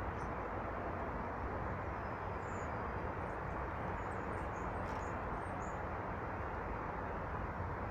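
Steady rushing background noise with a few faint, short, high chirps from small birds near the middle.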